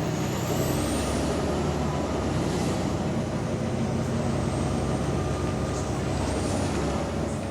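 Engine of a Wright-bodied Volvo double-decker bus running on the move, heard from on board: a steady rumble with a thin high whine that rises and falls. The bus has an exhaust leak.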